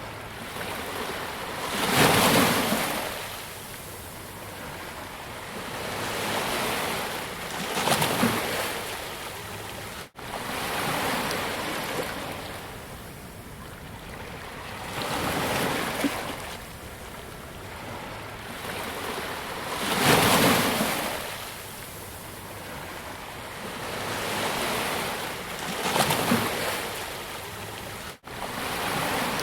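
Ocean waves surging up a beach and washing back, each swell rising and fading over a few seconds, with four bigger breakers standing out. The sound cuts out for an instant twice.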